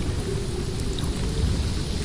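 Snowstorm wind blowing hard: a dense, steady low rumble with a faint howling tone that wavers in and out.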